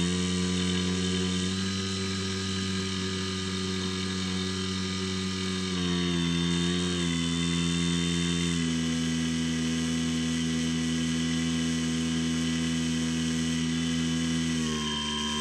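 Electric motor and propeller of a Skywalker X7 flying wing running with a steady whine. Its pitch steps up and down several times as the throttle is changed.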